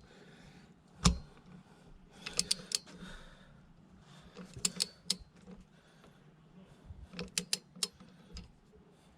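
Ratcheting torque wrench clicking in short groups of strokes, a single click about a second in and then three quick clusters, while tightening spark plugs to 27 newton metres.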